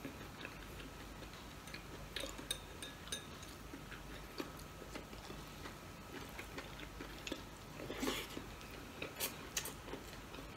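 Faint chewing and mouth sounds of a man eating rice by hand, with scattered small clicks and smacks, a few louder ones near the end.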